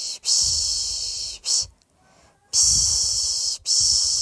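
A person shushing a baby to sleep with the 'piş piş' sound: repeated long 'shhh' hisses of about a second each, with a brief pause near the middle.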